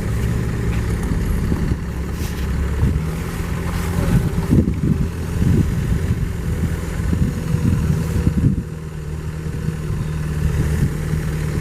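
A motor vehicle's engine running with a steady low hum, with some irregular rumbling around the middle.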